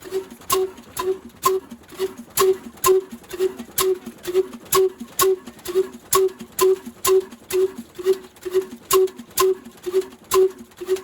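Old slow-running black diesel engine, the kind used to drive a village flour mill (atta chakki), running steadily. Its firing beats come sharply and evenly, about two a second.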